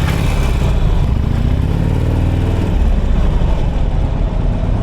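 Motorcycle engine running under way along with road and wind noise, its pitch dipping and rising briefly about two seconds in.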